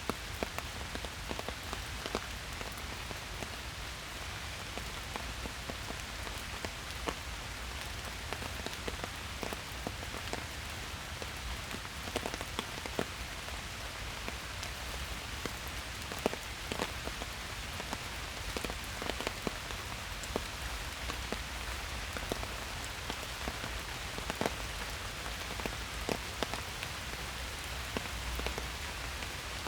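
Steady rain falling in a forest, a continuous hiss with many separate drops pattering and plinking close by.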